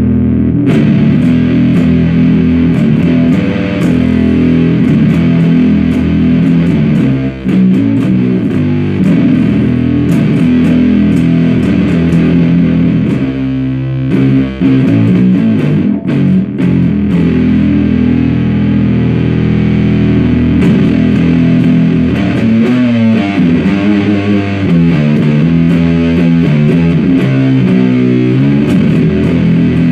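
Bass guitar played through a 77 Fuzz Blender fuzz pedal: heavily fuzzed, low booming riffs that run on with only brief breaks.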